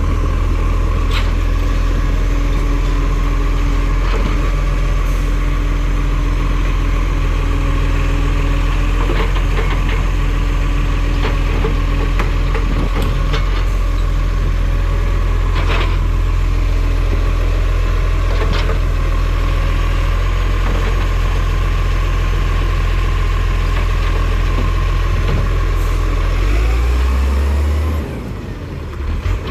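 Garbage truck engine running steadily at a loud level, with a few sharp knocks scattered through. Near the end the revs rise briefly, then the sound drops for a moment.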